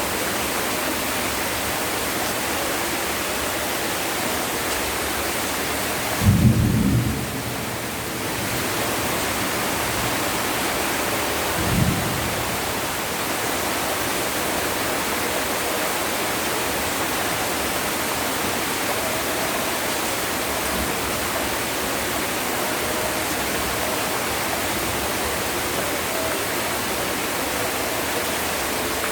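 Heavy rain falling steadily, with a loud low burst of thunder about six seconds in and a shorter, fainter one about twelve seconds in.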